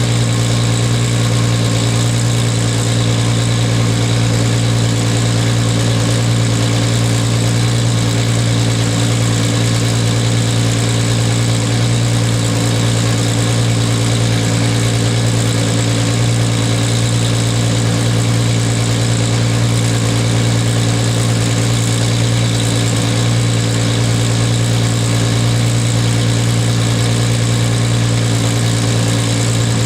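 1998 Toyota Supra Turbo's 2JZ-GTE straight-six idling steadily through an HKS titanium racing exhaust with the silencer fitted, with a strong, even low drone.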